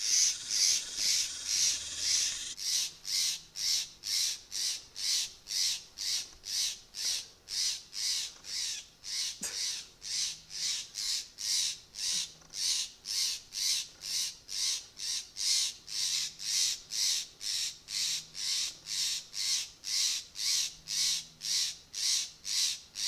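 A parent bird giving harsh alarm calls over and over, about two a second without a break: scolding and mobbing a cat that has killed a bird. Its voice is starting to go out from calling so long.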